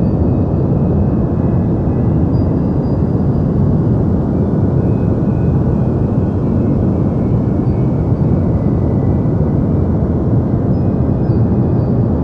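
Steady deep noise of the white-noise-for-sleep kind: an even hiss with most of its weight low down, unchanging, with no rhythm or events.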